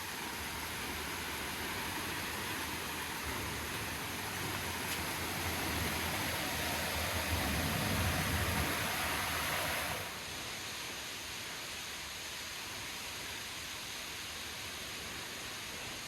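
Steady rush of river water. It grows louder through the middle and drops suddenly about ten seconds in.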